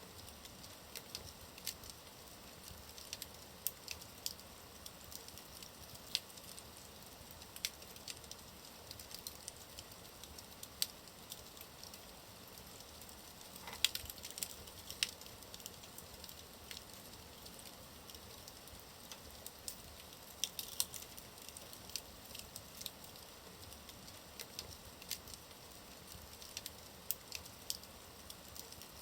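Wood fire burning in a fireplace: a soft steady hiss with frequent irregular crackles and pops, one sharper pop about halfway through.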